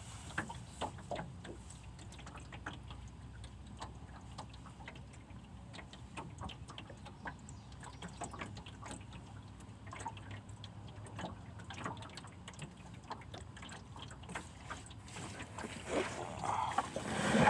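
Faint water lapping and trickling, with many small scattered ticks and splashes.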